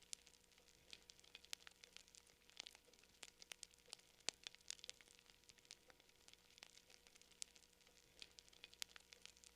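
Faint wood fire crackling: quick, irregular snaps and pops, several a second, with one louder pop about four seconds in.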